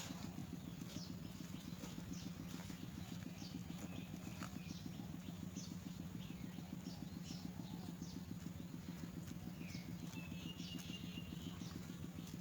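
Young myna chirping in short, high, downward-sliding calls, with one longer held call about ten seconds in. A steady, low, rapidly pulsing hum runs underneath.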